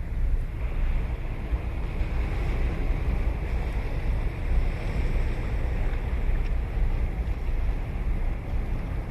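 Ocean surf breaking and washing up the beach, a steady hiss that swells through the middle and eases off, over a low rumble of wind on the microphone.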